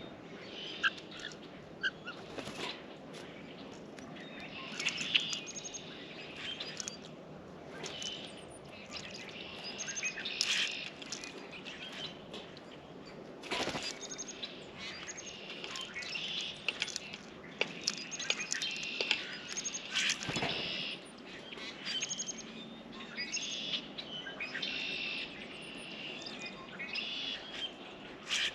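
Small songbirds at a bird feeder chirping and calling in many short, overlapping notes, with scattered sharp taps and knocks, the loudest about halfway through and again about two-thirds of the way in.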